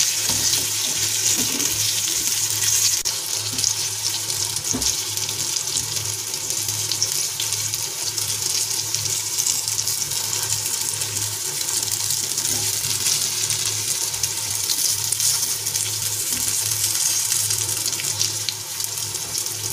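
Dhokla cubes shallow-frying in hot oil with mustard seeds: a steady sizzling hiss, with a few faint clicks as the pieces are moved in the pan.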